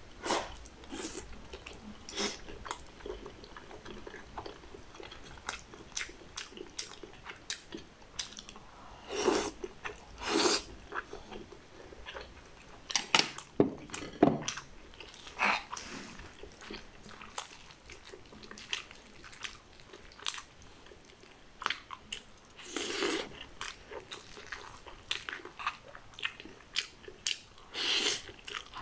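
Close-miked chewing and biting of a person eating, first soft braised pork belly and then spoonfuls of mixed rice with vegetables: scattered wet mouth clicks and smacks, with several louder bursts of mouth noise along the way.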